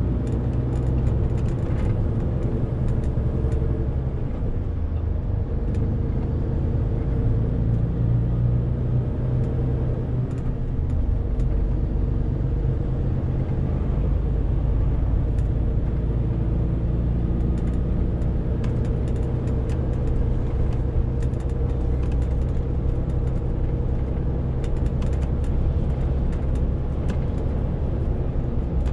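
Renault T520 truck's 13-litre six-cylinder diesel engine running steadily under load, hauling a 40-tonne load, with a low hum that shifts in pitch a few times along the way.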